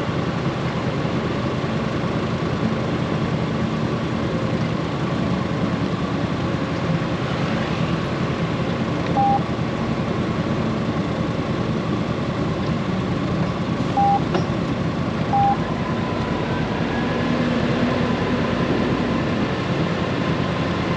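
Honda GoldWing's flat-six engine and road noise while riding, a steady drone whose pitch shifts slightly about two thirds of the way in. Three short electronic beeps sound, one about nine seconds in and two close together around fourteen to fifteen seconds in.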